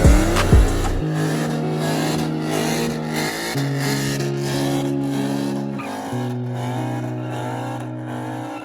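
Car engine held at high revs, its pitch holding and then shifting in steps a few times, with tyre squeal over it, as in a burnout.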